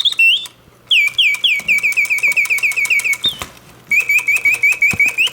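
Vintage Reuge double singing bird cage's clockwork bellows-and-whistle mechanism singing: rapid trills of short chirps, each sweeping down in pitch, about six a second, broken by brief pauses about half a second in and again about three and a half seconds in.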